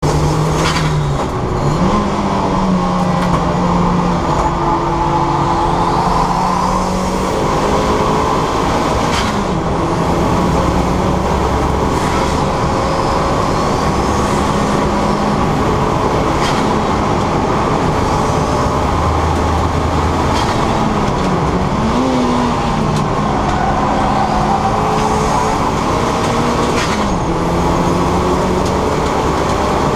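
Turbocharged 2.0-litre Duratec engine of a Mk6 Ford Fiesta ST150 driven hard on track, its note climbing and then dropping at gear changes several times, over a steady loud rushing noise.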